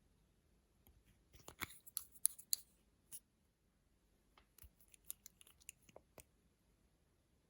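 Close, quick crackles and clicks from slime and makeup being handled by hand. They come in two clusters of a second or two each, the first about a second in and the louder, the second about four and a half seconds in.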